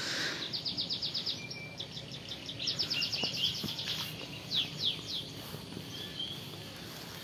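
Small birds chirping: rapid runs of high chirps, then a few quick down-sliding whistled notes, over faint steady outdoor background noise.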